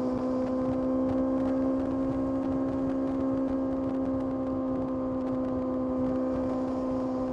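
Kawasaki ZX-6R's 636 cc inline-four engine running at a steady, fairly high speed while riding, its note holding almost constant pitch and easing slightly near the end.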